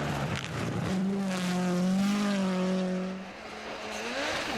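Rally car engine running hard at high revs, its note held roughly steady, then easing off about three seconds in and climbing again as the car accelerates.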